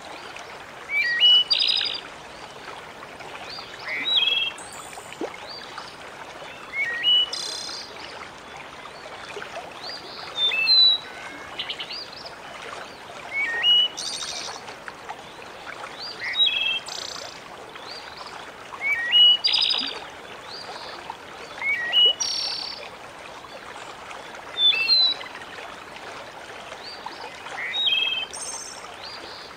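Birds chirping in short, quick phrases of sliding notes, repeating every two to three seconds, over a steady soft hiss of running water.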